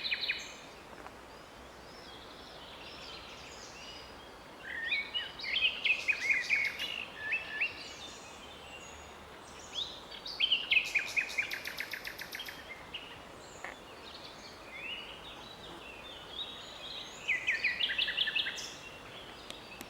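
Common nightingale singing: three phrases a few seconds apart, the middle one ending in a fast run of repeated notes, over steady background noise.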